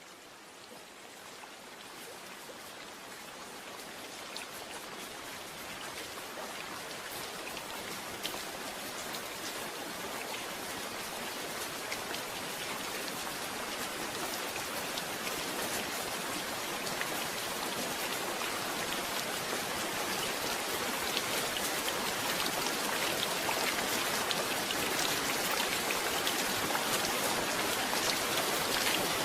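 Rain falling and pattering on a surface, a dense hiss with many small drop ticks, growing steadily louder from very faint as it fades in.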